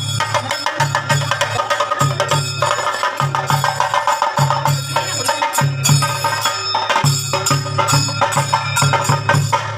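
Rhythmic percussion music: fast, even drum strokes with sharp clacking strikes over a pulsing low beat. It cuts off abruptly at the end.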